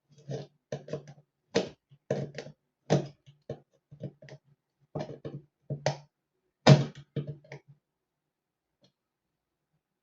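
An irregular series of short knocks and clatters, like parts being handled and set down, stopping about three-quarters of the way through.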